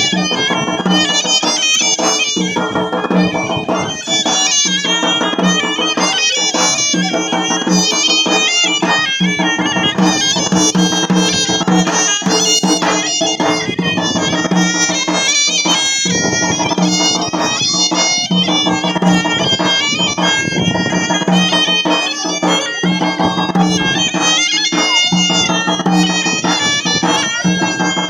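Traditional folk music: a reedy, bagpipe-like wind instrument plays a fast, ornamented melody over a steady drone, with percussion beating throughout.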